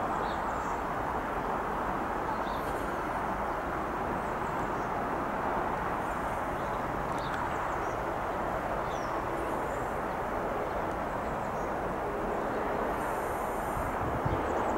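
Class 375 Electrostar electric multiple unit running slowly towards a station platform, a steady even train noise, with a few low thuds near the end. Small birds chirp faintly over it.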